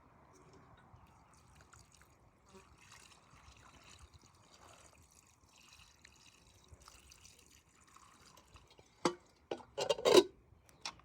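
Quiet with faint scattered drips, then about nine seconds in a short run of loud splashes and dribbles of water, the loudest just after ten seconds.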